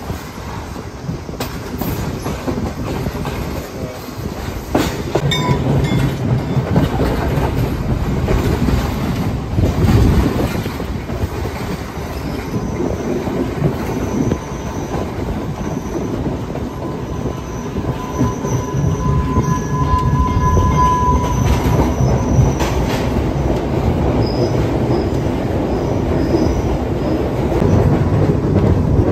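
Passenger train running along the rails, heard from inside a carriage: a steady rumble and rattle of wheels on track, with thin high wheel squeals through the middle of the stretch.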